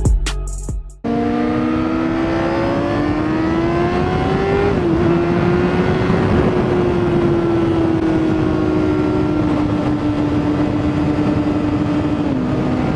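Honda CBR600RR inline-four sport-bike engine running under way with wind noise. Its pitch climbs slowly, dips briefly at a gear change about five seconds in, then holds and eases gradually lower.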